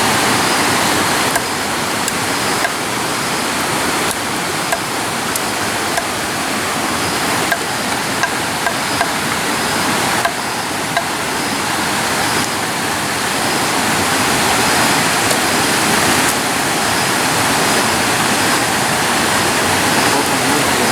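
Steady rushing of running water, like a stream or small waterfall, with a few light clicks over it.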